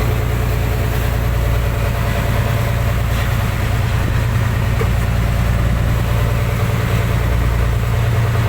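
A fishing boat's engine running steadily with a deep, even hum.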